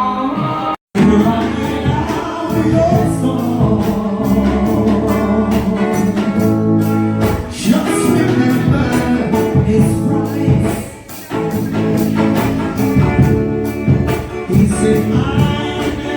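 Gospel song sung with band accompaniment and a steady percussion beat. It drops out briefly about a second in.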